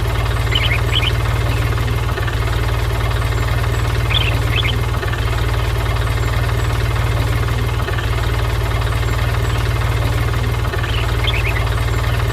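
Small engine running steadily at an even speed: a deep hum with a fast, even pulse and no change in pitch. A few faint high chirps sound over it.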